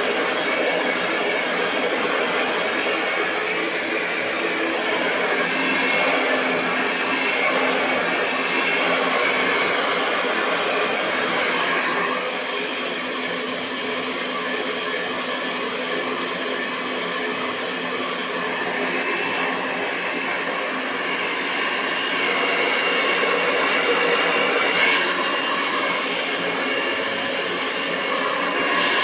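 Hair dryer blowing continuously: a steady rush of air with a faint whine. It gets a little quieter about twelve seconds in and louder again a little after twenty seconds.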